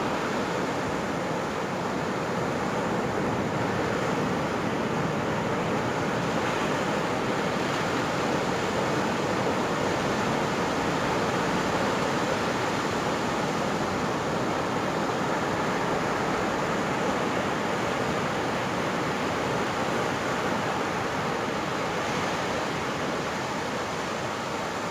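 Pacific surf breaking and washing up on a sandy beach: a continuous rush of waves, swelling slightly in the middle.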